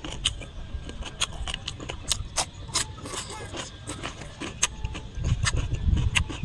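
Close-up chewing with many sharp, irregular crunches and wet mouth clicks as a man eats a raw green chilli. A low rumble comes in about five seconds in.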